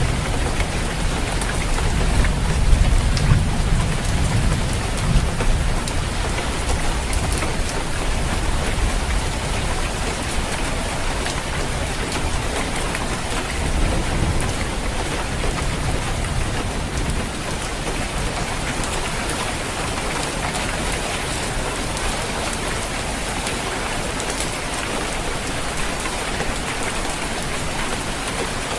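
Steady rain falling on a roof, a dense even patter, with low rumbles swelling in the first few seconds and again about halfway through.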